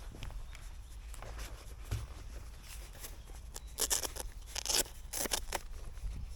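Handling noise from the operator's gear: a few short, sharp rustling and crinkling bursts about four to five seconds in, over a low steady rumble.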